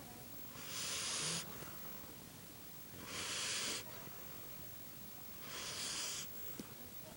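Sleeping dog snoring: three airy, hissing breaths, each under a second and about two and a half seconds apart.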